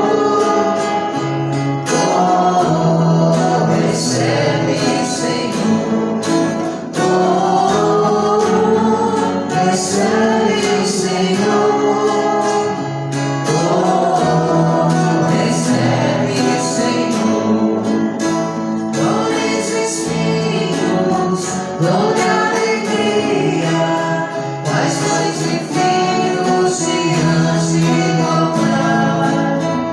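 Worship music: a choir singing an offertory hymn, accompanied by guitar.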